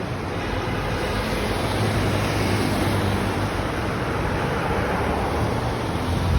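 Steady road traffic noise: a constant rush of passing vehicles with a low engine hum underneath.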